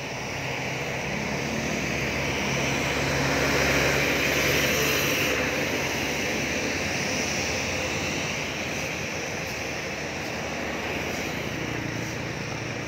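Road traffic passing on a wet street: engine drone under a hiss of tyres, swelling to a peak about four to five seconds in as a heavy vehicle goes by, then easing off.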